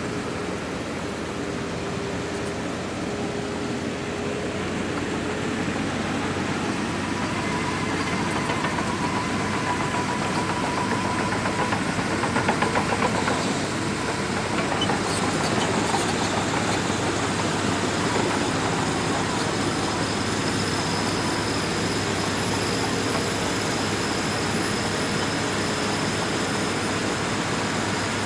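Crawler bulldozer running steadily under load, its diesel engine and steel tracks making a continuous mechanical din with a thin steady whine above it. It grows somewhat louder about halfway through.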